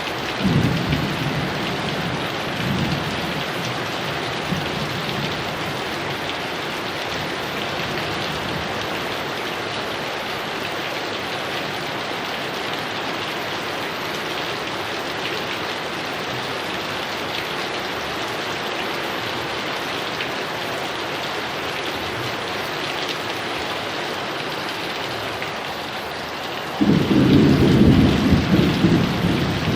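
Heavy rain pouring steadily. Thunder rumbles about a second in, and a louder peal breaks suddenly near the end.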